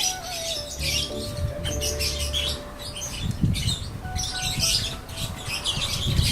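A flock of caged lovebirds chirping and chattering with many high, overlapping calls.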